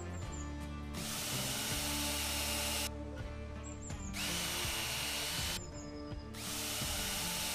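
A handheld electric power tool run three times in bursts of about one and a half to two seconds, its motor whine rising as it spins up at the start of each run, over background music.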